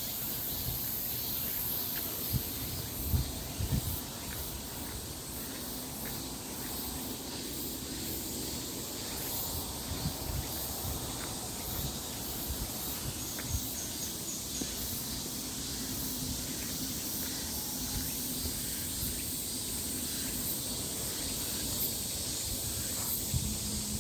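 Forest ambience: a steady high-pitched hiss, with occasional low thumps, the loudest about three to four seconds in.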